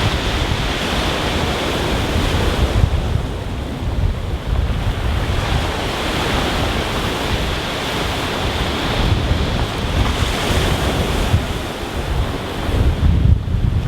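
Rough sea breaking on a stony beach, the surf hissing as it swells and ebbs over the stones. Wind buffets the microphone with low rumbling gusts, heaviest near the end.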